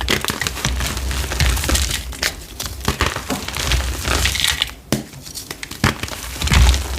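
Blocks of gym chalk being crushed and crumbled, a dense gritty crunching with many small cracks. The crunching dips briefly about five seconds in, then comes back with a louder crunch near the end.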